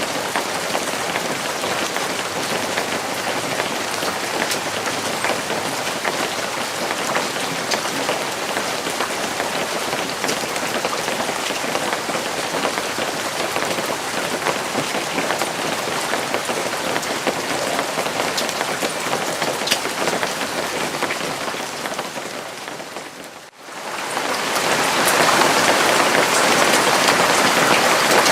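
Steady rain falling on a surface, an even hiss with individual drops ticking through it. Near the end it dips out for a moment and comes back louder.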